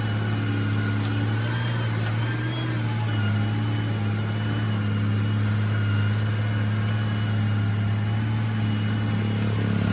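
Heavy diesel engine of construction machinery running steadily at a constant speed, with a low, even drone and fainter wavering higher whines over it.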